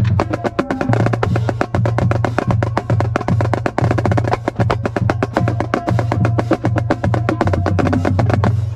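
Marching drums playing a fast cadence: rapid, crisp snare strokes over a deep low drum pulse, cutting off suddenly near the end.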